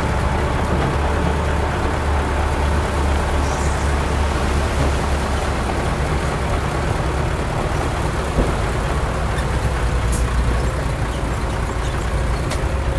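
Heavy diesel earthmoving machinery running steadily under load, with a low engine drone and a few short sharp knocks in the second half.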